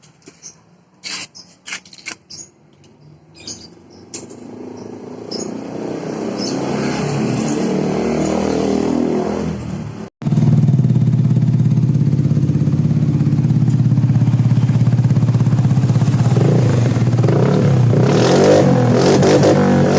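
Vespa Sprint 150 i-get's single-cylinder four-stroke engine running through a Best3 full-system aftermarket exhaust. A few clicks and knocks come first, then the engine sound builds up over several seconds. After an abrupt cut about halfway it runs loud and steady, with revs rising and falling near the end.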